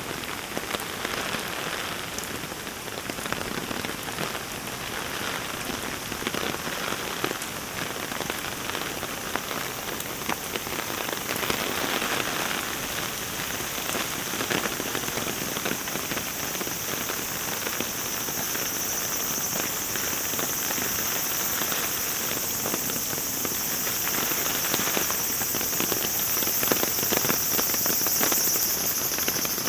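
Heavy rain falling steadily, with many individual drops ticking close by, growing slowly louder. A steady high-pitched hiss rises in the upper range over the second half.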